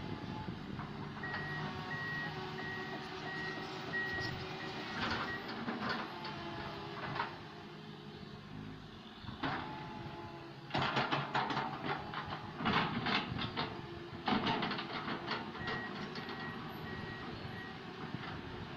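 Komatsu PC160LC excavator's diesel engine running steadily while a warning alarm beeps about twice a second, stopping and starting again near the end. In the middle, a few seconds of loud clattering and thuds, which fit a bucketload of soil and stones being dumped into the dump truck's bed.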